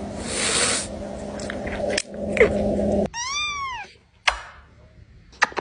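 A cat hissing and crying for about three seconds, cut off sharply, then one drawn-out meow that rises and falls, followed by a few short clicks.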